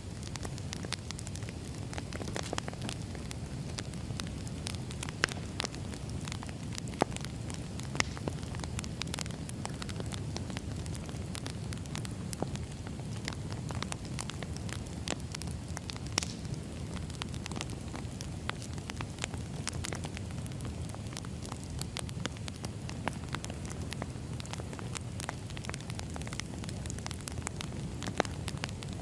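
Firewood burning: a steady low rumble of flames with continual irregular crackles and occasional louder pops.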